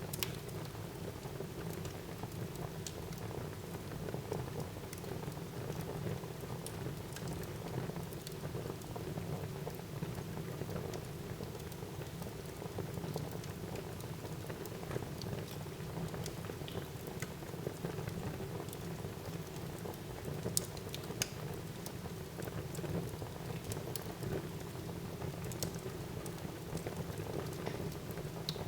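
Wood fire burning in a fireplace: a steady low rush of flame with scattered sharp crackles and pops, a few louder pops about two-thirds of the way through.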